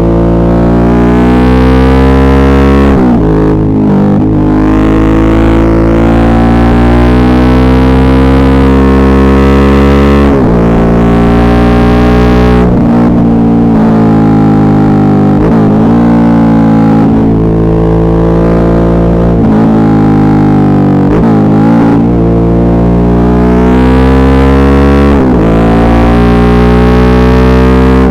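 Suzuki V-Strom 650's V-twin engine under way, its revs climbing and then dropping sharply about seven times as the rider shifts and rolls the throttle on and off. Recorded loud and distorted through an earbud microphone.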